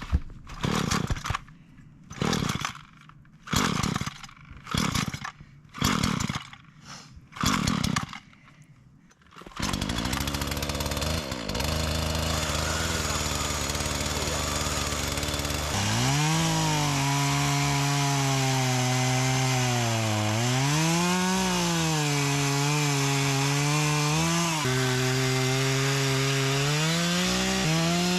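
A run of about eight short noisy strokes, roughly a second apart, then a Husqvarna chainsaw running from about ten seconds in. From about halfway its engine pitch dips and rises again and again as the chain bites into a tree trunk.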